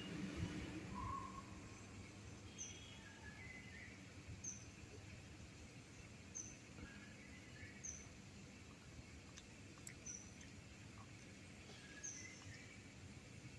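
A faint bird chirping: a short, very high chirp repeated about every two seconds, over low background noise.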